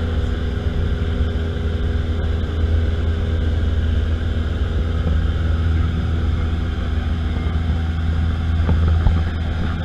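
Airplane engine droning steadily, with a strong, even low hum.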